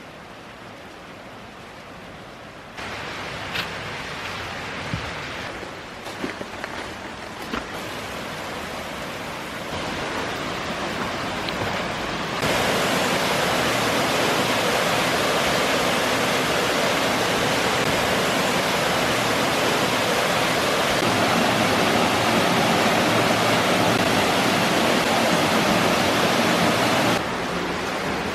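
Waterfall pouring, a steady rushing noise that jumps louder in steps, loudest from about 12 seconds in until it drops shortly before the end. A few light knocks are heard between about 3 and 8 seconds in.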